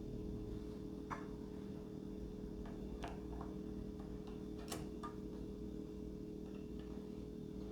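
Scattered light clicks and taps, about six, of small parts and tools being handled during model-plane assembly, over a steady low hum.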